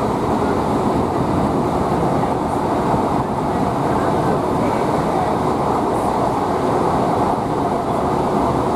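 Steady running noise inside the saloon of a moving Class 153 diesel multiple unit. The rumble of its underfloor Cummins diesel engine blends with the wheels on the rails, mostly low-pitched and unbroken.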